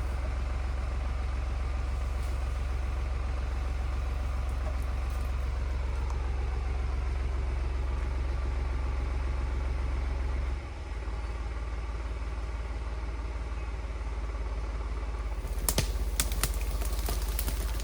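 A tractor engine running steadily. About ten and a half seconds in, it dips briefly and settles at a lower pitch, and near the end a few sharp knocks come through over the engine.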